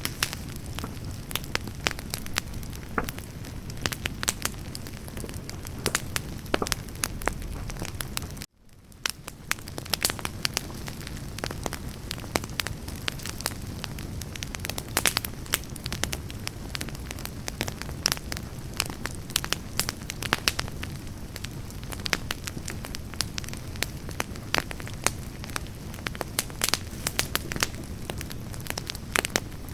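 Wood campfire burning, with frequent sharp crackles and pops over a steady low rush of flame. About eight seconds in, the sound cuts out briefly and fades back in.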